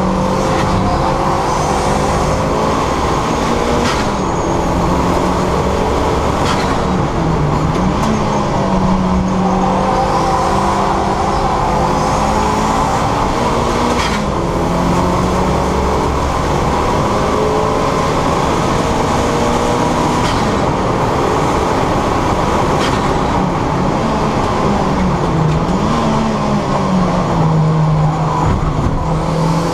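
Turbocharged 2.0 Duratec engine of a Mk6 Ford Fiesta ST150 running hard on track. Its note holds steady and dips briefly now and then before climbing back, over steady road and wind noise, with a few sharp clicks.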